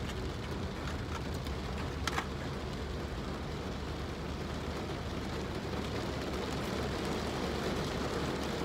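Steady rain on the roof of a car, heard from inside the cabin, over a low steady hum, with a faint click about two seconds in.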